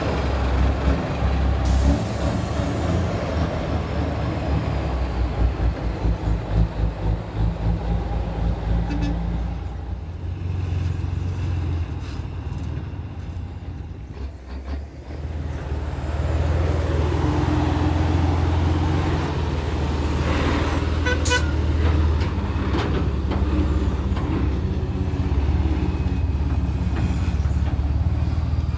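Truck engine running with a low drone that pulses for a few seconds, eases off and then picks up again, with a brief horn toot a little past two-thirds of the way through.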